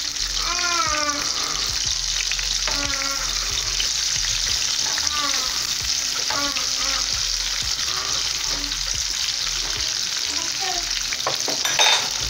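Sliced onions sizzling in hot red palm oil in an aluminium frying pan, stirred with a spatula. A sharp utensil clatter comes near the end, with a few brief high calls in the background.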